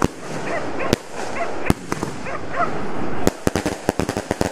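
Fireworks going off: single sharp bangs roughly a second apart over a hiss that grows louder, then a fast string of bangs near the end.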